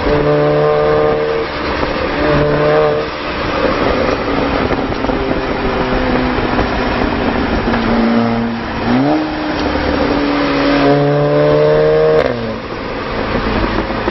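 Volkswagen Golf R Mk7's 2.0-litre turbocharged four-cylinder engine and exhaust under way. The note holds steady pitches broken by jumps, rises sharply about nine seconds in, and falls away a little after twelve seconds.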